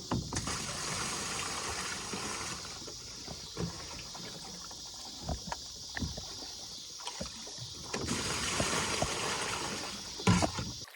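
Water running and splashing into a Nucanoe Frontier 12 fishing kayak as it is filled, a steady hiss with scattered knocks on the hull and a louder knock near the end.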